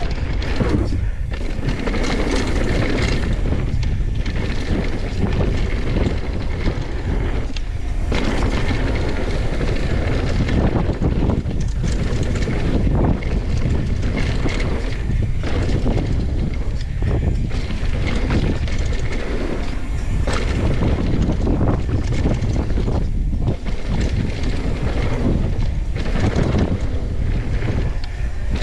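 Loud, steady wind rumble buffeting the microphone, without a break.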